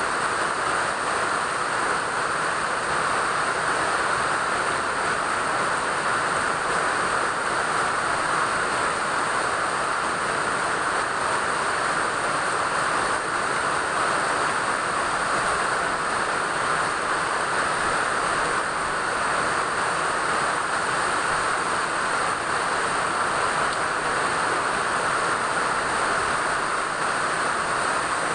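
Steady rain falling, an even unbroken hiss with no change in strength.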